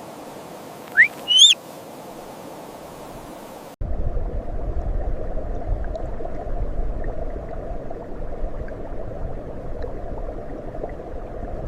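Steady outdoor ambience with two short rising animal calls about a second in, the second higher and richer. About four seconds in it cuts abruptly to a louder, low rumbling noise with faint ticks.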